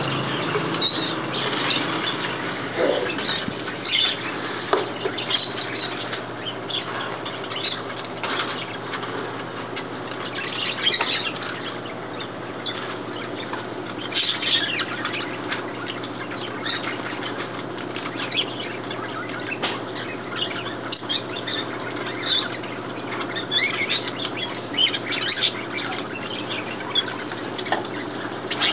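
A dense, steady chorus of many birds chirping and calling at once, full of short overlapping calls.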